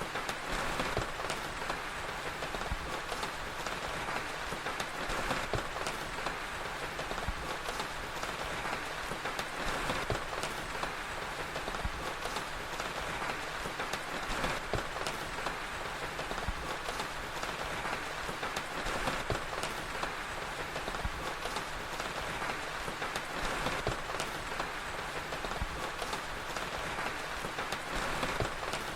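Steady rain, mixed with frequent small sharp crackles and pops from a wood fire.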